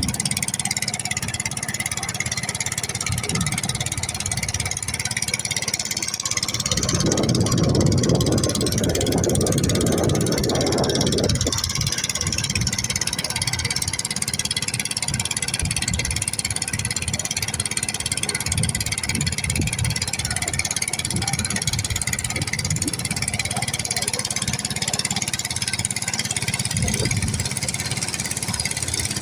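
A small boat's motor running steadily, with a low rapid rattle and wind hiss on the microphone. The motor grows louder for a few seconds about seven seconds in.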